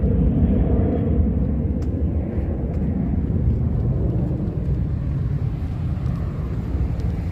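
Low, steady rumble of a motor vehicle's engine close by, slowly easing off.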